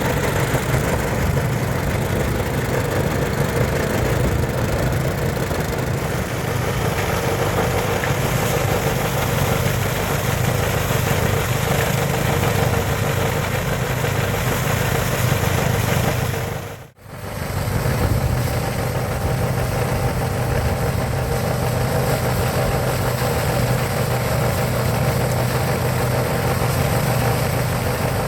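Engine-driven paddy thresher running steadily, its engine humming under the rushing noise of the threshing drum. The sound briefly cuts out about two-thirds of the way through, then carries on unchanged.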